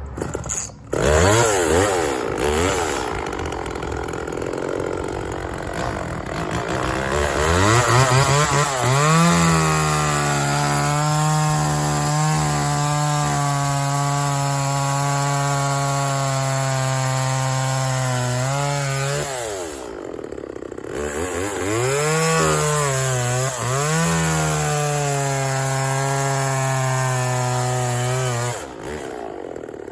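Homelite two-stroke chainsaw revving up and cutting pine branches, holding a steady high speed for about ten seconds in the cut. It eases off briefly about twenty seconds in, runs flat out again, then drops back near the end.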